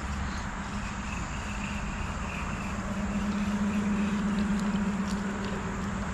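Road traffic from a nearby street: a steady hum with a constant wash of noise, swelling a little around the middle as a vehicle goes by.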